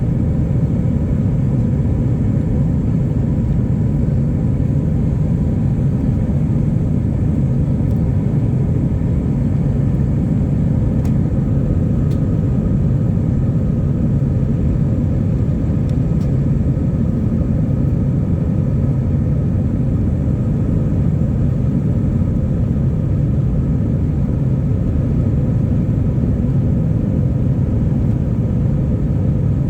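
Airbus A319's IAE V2500 turbofan engines running at high power on departure, heard from inside the cabin: a steady, loud low rumble with faint steady whining tones above it.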